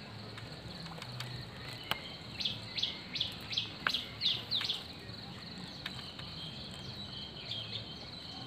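A bird calls a quick run of about eight sharp chirps a few seconds in, over a steady high-pitched insect drone.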